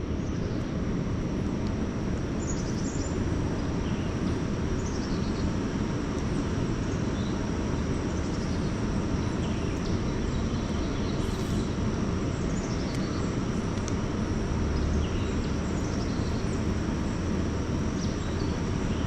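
Steady rush of rain-swollen water pouring through a lake spillway, an even low roar at constant level. A thin, steady high whine sits over it, with a few faint chirps.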